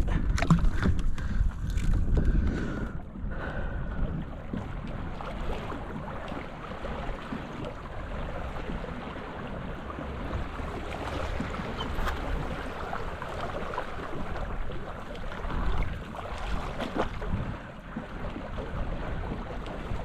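Wind buffeting the microphone, gusting hardest in the first three seconds, over a steady rush of water.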